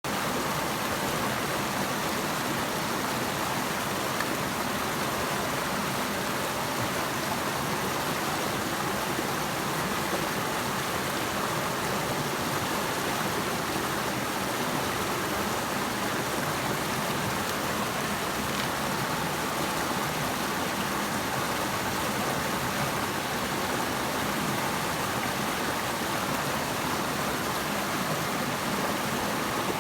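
Flowing water rushing steadily: an even, unbroken hiss of a stream or river course, with no pauses or changes.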